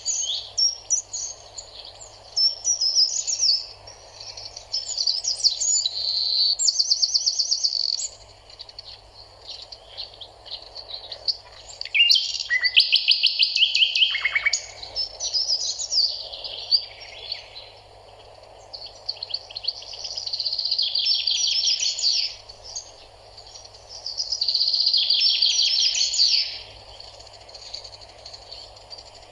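Birds singing: overlapping chirps and fast trilled phrases a second or two long, one after another, over a faint steady hum.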